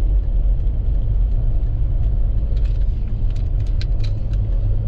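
Steady low rumble of a vehicle driving, with a few faint ticks around the middle.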